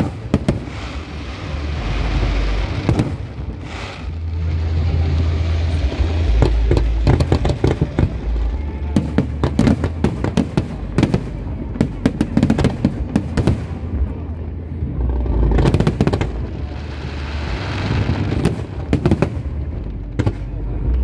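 Fireworks display: aerial shells bursting in quick succession, deep booms under dense crackling, with sharp bangs coming thickest about halfway through and again near the end.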